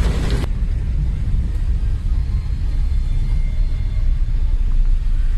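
Steady low rumble of a vehicle driving, with a louder hiss that cuts off abruptly about half a second in.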